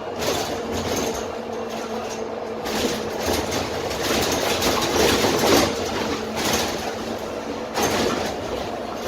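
Interior of a Dennis Trident double-decker bus under way: its Cummins ISMe diesel engine humming steadily under road noise and body rattles, growing louder for a couple of seconds in the middle.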